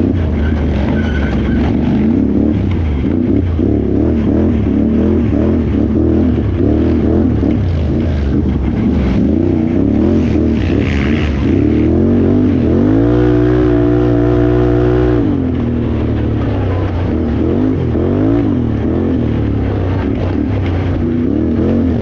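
Can-Am Renegade XXC 1000R's V-twin engine revving up and down constantly under racing throttle. Just past halfway it is held at a high, steady pitch for about two seconds, then drops back.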